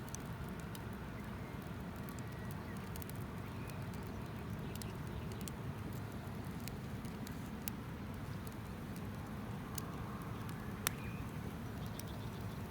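Campfire crackling: a steady low rush of burning wood with scattered sharp, irregular pops, one louder pop near the end.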